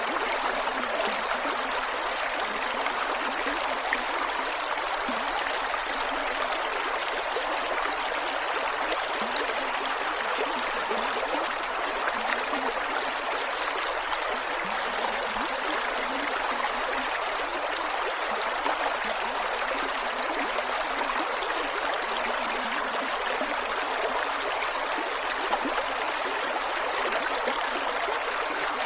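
Creek water flowing over rocks, a steady rushing with small gurgles and trickles.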